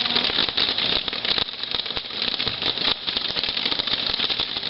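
Dense, steady crackling and sizzling from a burning firework: a rapid run of tiny pops, like a crackling ground fountain.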